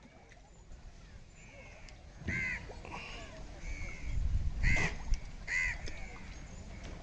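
Crow cawing repeatedly: a series of short caws, faint at first, then louder about two and a half seconds in and twice more near the end, over a low rumble.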